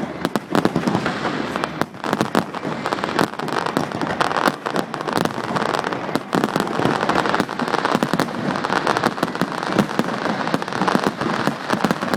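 Fireworks display: a dense, continuous run of bangs and crackling, many shots a second with no let-up.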